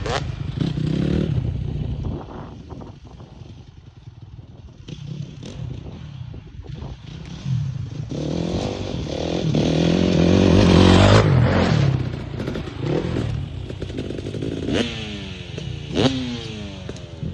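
Dirt bike engine revving, its note rising to its loudest about ten seconds in and falling away again near the end, with a few sharp clattering knocks.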